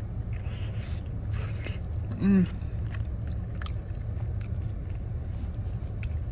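A person biting into fried tofu and chewing it, with moist crackly chewing noises and small mouth clicks. There is a short hummed "mm" a little over two seconds in, over a steady low hum.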